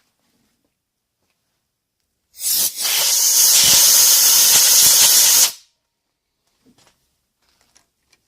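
A pressurised nozzle hissing loudly for about three seconds. It starts a couple of seconds in and cuts off sharply, at the freshly tapped hole.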